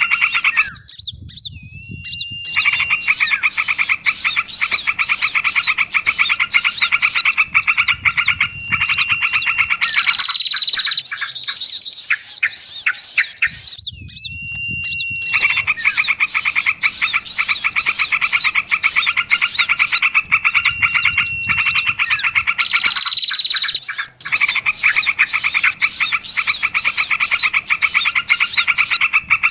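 Bird-lure recording: a dense, looped mix of small songbirds' rapid, repetitive chirps and trills, layered over a fast, even pulsing chatter. Layers drop out briefly a few times, then the full chorus resumes.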